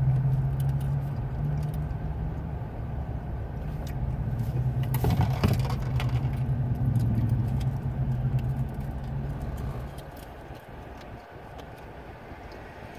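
A motor vehicle's engine hums steadily and low, heard from inside a parked car, then fades out about ten seconds in. Small clicks and crinkles are heard throughout.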